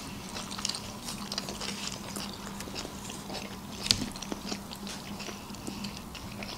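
Two people chewing mouthfuls of baked sushi rolls close to the microphone, with many small wet mouth clicks. A sharper click comes about four seconds in, and a faint steady hum runs underneath.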